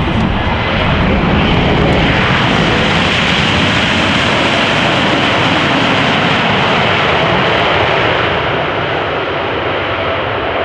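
An airliner passing close by, a loud rushing engine noise with a tone that slides steadily down in pitch as it goes past. The noise swells a second or two in and starts to ease near the end.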